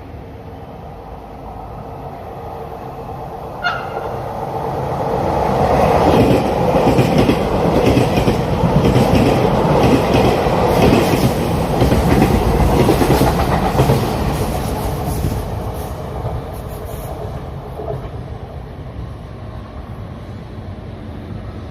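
TEMU2000 Puyuma tilting electric express train passing through the station without stopping. The rumble and rapid clickety-clack of its wheels over the rail joints build up, stay loud for several seconds and fade away.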